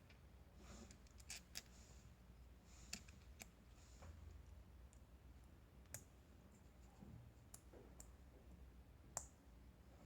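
Faint, scattered clicks of toy building blocks being picked up and fitted together, a few of them sharper, around 6 and 9 seconds in.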